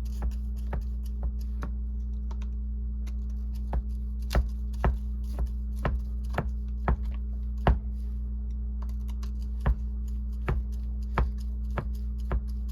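Irregular light clicks and taps of small RC-car parts and tools being handled, over a steady low hum.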